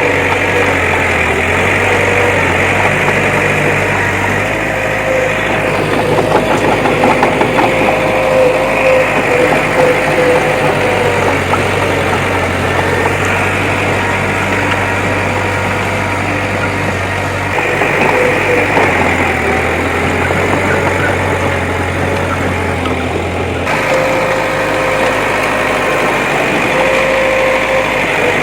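Heavy diesel engine of a bulldozer running continuously as it works, its note shifting a little every few seconds.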